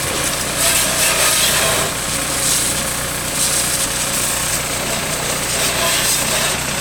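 An engine running steadily, with a continuous high hiss over it, heard while tractors and a baler are washed.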